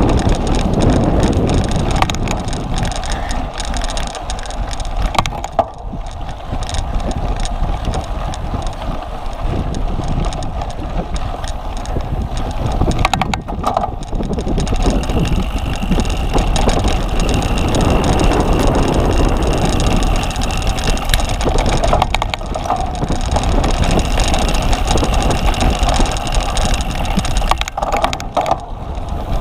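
Wind buffeting the microphone of a camera carried on a bicycle being ridden, with occasional knocks and rattles from the bike over rough ground.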